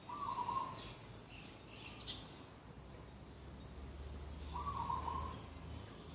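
Dove cooing twice, each call a short hooting note just under a second long, about four seconds apart. Small birds chirp faintly and high-pitched between the calls.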